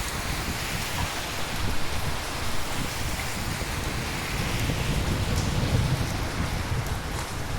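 Steady rain falling on hard surfaces, an even dense hiss, with a low rumble underneath that swells about two-thirds of the way through.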